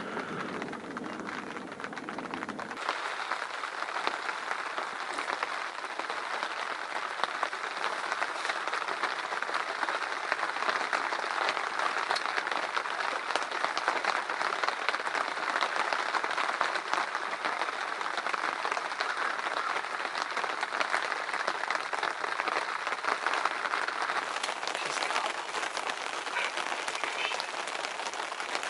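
Heavy rain falling in a thunderstorm, a dense, steady patter of drops. A low rumble underneath stops about three seconds in.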